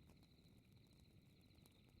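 Faint night ambience: crickets trilling steadily, with a few sparse crackles from a wood fire over a low, soft rumble.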